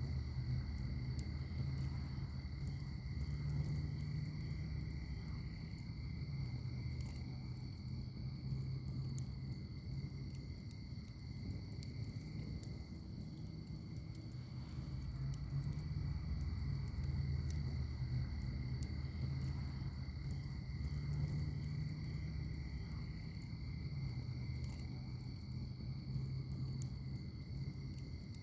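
Wood fire in a firepit burning, with scattered small sharp crackles over a low steady rumble, and a steady high trilling of crickets underneath.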